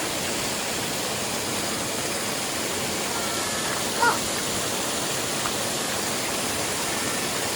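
Valley stream water rushing steadily over rocks, with one short high-pitched sound about four seconds in.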